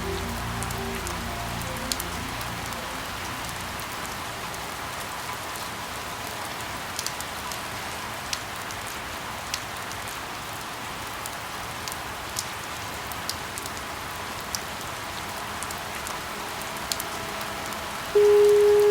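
Steady rain falling, an even hiss with scattered sharp drop ticks. Soft background music fades out in the first couple of seconds, and near the end a loud steady tone starts suddenly.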